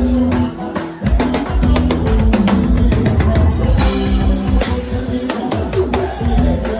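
Live band music with a drum kit keeping a steady beat under bass and other instruments, with some singing.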